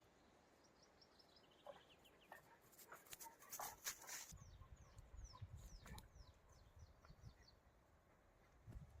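Faint high chirping and short trills, typical of small forest birds. A few sharp knocks come in the first half, and a low rumble follows in the second half.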